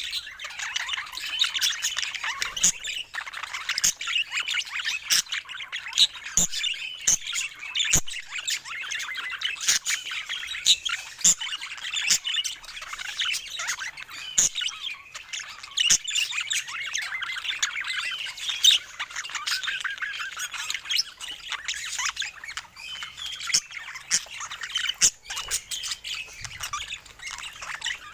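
Budgerigars chattering continuously: a dense warble of squawks and quick, sharp chirps.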